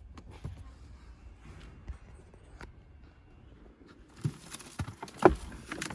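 Handling noises: scattered light clicks, then a few louder knocks with rustling in the last two seconds.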